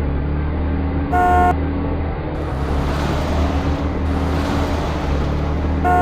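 Cartoon truck sound effect: a steady low engine rumble with two short horn toots, one about a second in and the other near the end.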